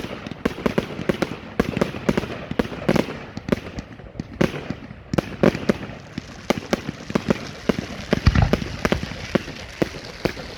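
Category 4 fireworks going off in a dense volley of sharp bangs and crackles, several a second, with a deeper boom about eight seconds in.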